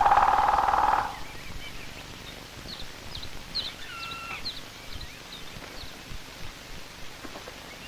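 A sustained steady tone cuts off about a second in. After that come scattered short bird chirps and small gliding calls over a faint film hiss.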